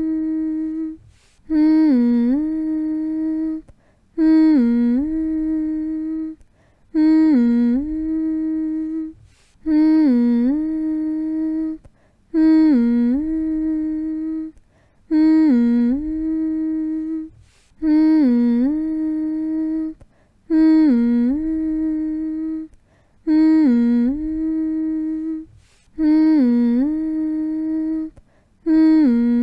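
A voice humming the same short phrase over and over, about every three seconds. Each hum dips in pitch and comes back up, then holds one steady note before a short pause.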